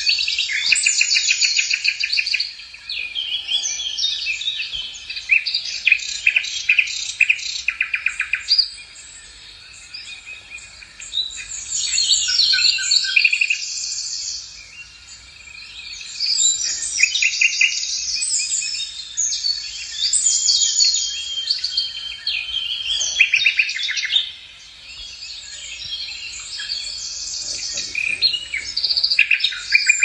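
Songbirds singing: rapid trilled and chattering phrases one after another, with brief pauses between them.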